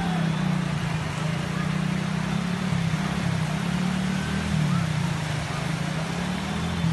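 Steady rushing noise of heavy rain and flowing floodwater, with a low, wavering motor hum underneath.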